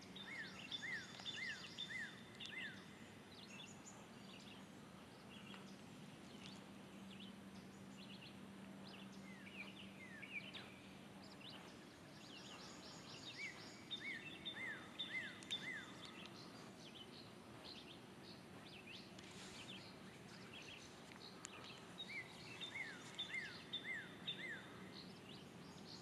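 Quiet pond-side ambience with a bird singing short runs of five or six quick descending chirps, about four runs, several seconds apart. A faint steady low hum runs under the first half and then fades out.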